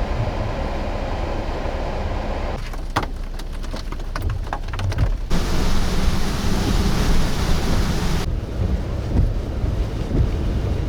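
Strong blizzard wind rushing and buffeting the microphone. The sound changes abruptly three times, and the middle stretch is full of sharp crackling clicks.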